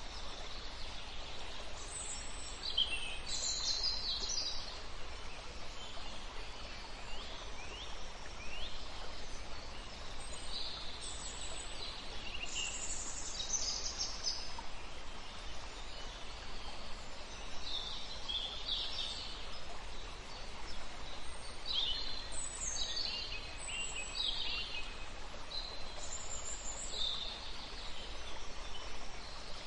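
Small birds chirping in clusters of quick, high, falling notes over a steady background hiss.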